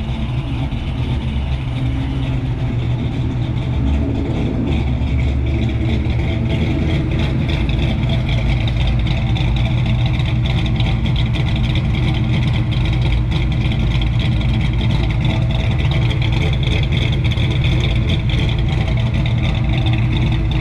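Fox-body Ford Mustang's engine idling with a choppy, lopey cammed idle, getting a little louder about four seconds in.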